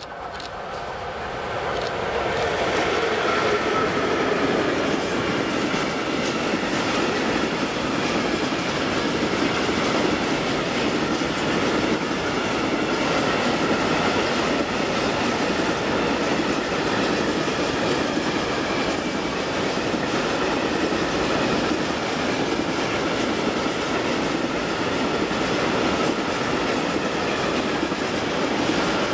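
ZSSK Cargo class 183 electric locomotive hauling a long freight train of grain hopper wagons past at line speed. The sound builds over the first few seconds as the locomotive draws near, then settles into a steady rumble and clatter of the wagons' wheels on the rails.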